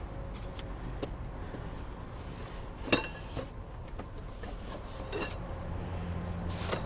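Hard items in a dumpster clinking and knocking as they are shifted about, a few separate sharp knocks with the loudest about three seconds in, over a steady low rumble.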